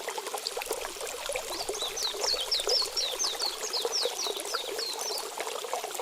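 Stream water trickling and babbling steadily, with a run of about a dozen quick, high chirping notes, each sliding downward, from about a second and a half in until about five seconds in.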